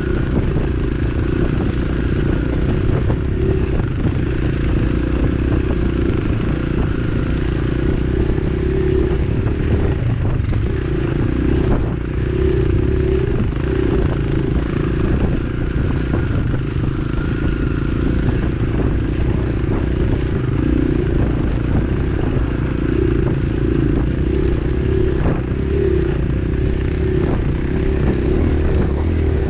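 Dirt bike engine running steadily during a ride, with frequent rattles and knocks throughout.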